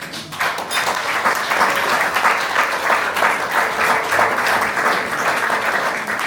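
Audience applauding: many hands clapping at once, starting just after a fado song ends and stopping abruptly near the end.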